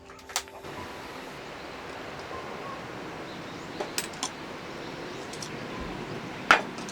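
Steady rushing murmur of a nearby river, with a few small clicks and one sharper knock near the end. A short tail of background music stops at the very start.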